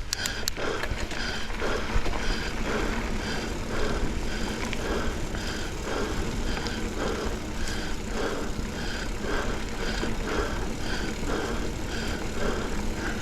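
A mountain-biker panting hard on a steep climb, about two breaths a second, over a steady low rumble.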